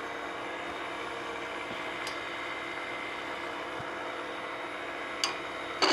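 Steady hum of a wood lathe running with no cut being made, with a faint high whine over it and two light clicks, one about two seconds in and one near the end.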